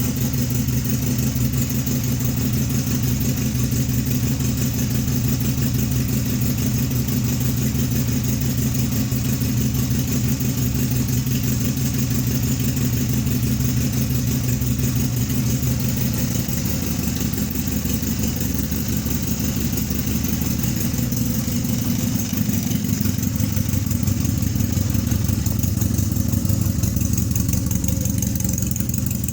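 1986 Honda's engine idling steadily after a cold start at about 40 °F; about halfway through, its note settles slightly lower.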